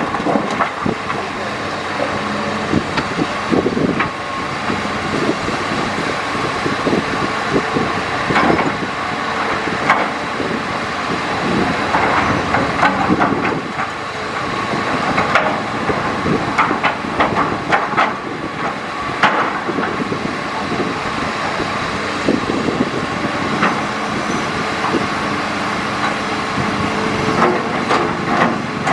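Hitachi Zaxis excavator's diesel engine running steadily while it digs, with irregular clanks and knocks from the bucket working the riverbed.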